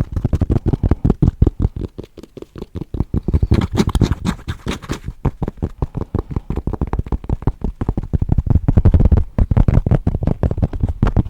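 Fast, aggressive scratching and tapping right on the microphone: a dense, rapid run of rough strokes many times a second, heavy in the low end.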